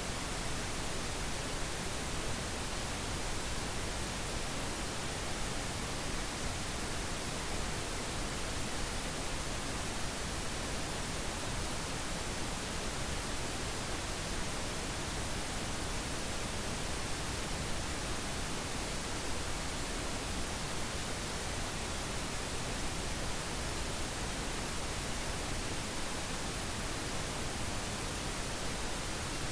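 Steady synthetic pink noise: an even, unchanging hiss spread across the whole range, without any pitch or events.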